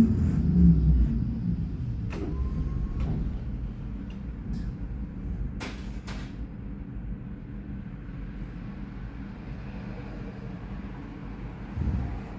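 Alstom NGT8D low-floor tram's drive whining down in pitch as it brakes to a stop in the first second. It then stands with a steady low hum from its equipment, broken by a few sharp clicks and knocks about two to six seconds in and a brief low rumble near the end.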